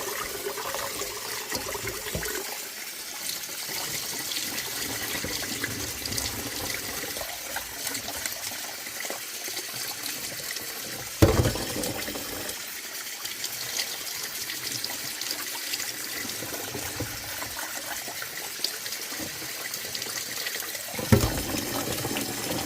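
Tap water running and splashing into a rice cooker pot as basmati rice is rinsed of its starch. Two knocks, about halfway through and near the end.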